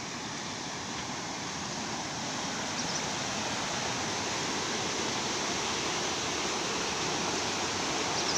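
Mountain river rushing over its bed: a steady, even rush of water that grows gradually louder.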